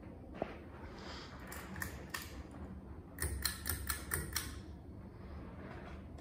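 A quick series of sharp clicks, a few scattered ones and then about six in a row, from the pull-chain speed switch of a Hunter Low Profile IV Plus ceiling fan being cycled to its low setting.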